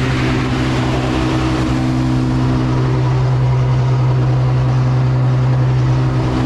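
Ferrari F12's V12 engine idling steadily with an even low hum, left running so the car can cool down after a front-end crash.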